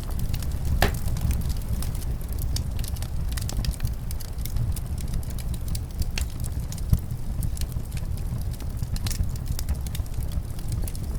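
Wood fire crackling, with many small irregular pops and one louder crack about a second in, over a steady low rumble of wind.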